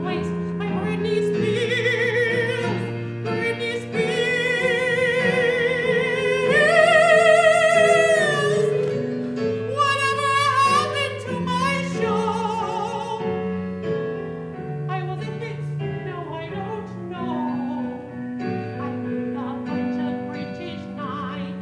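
A solo singer in classical, operatic style sings a comic musical-theatre song with wide vibrato over piano accompaniment. The voice climbs to a long, loud high note about six seconds in and holds it for a couple of seconds.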